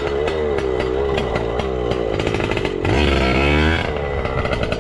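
Yamaha PW80's 80cc single-cylinder two-stroke engine revving as the pit bike is ridden, its pitch swinging up and down, with a rise and fall about three seconds in.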